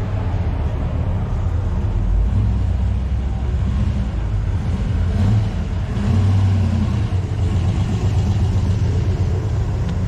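A car engine running with a low-pitched sound, swelling briefly in level a few times, around two, five and six seconds in.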